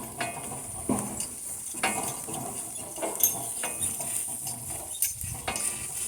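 Harness and hitch gear on a walking donkey team clinking and knocking irregularly, about one to two knocks a second.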